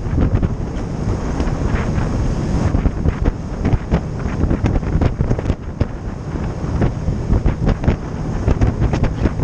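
Wind buffeting the microphone on a moving boat, with the boat's running noise and water under the hull beneath it, in uneven gusts.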